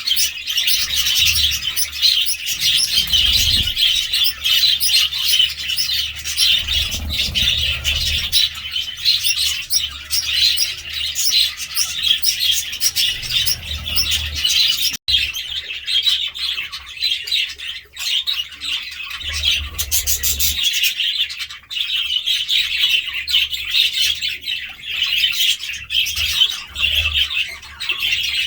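Budgerigars chattering and chirping continuously in a rapid, busy warble.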